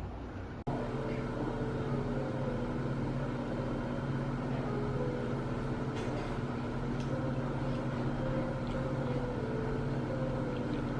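A steady low machine hum with several held tones, starting abruptly under a second in.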